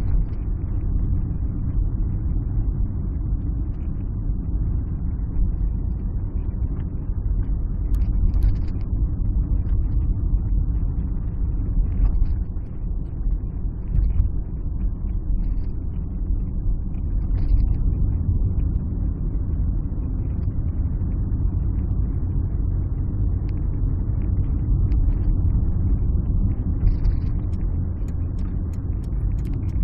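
Alfa Romeo 156 on the move: a steady low rumble of engine and road noise, with a few light ticks near the end.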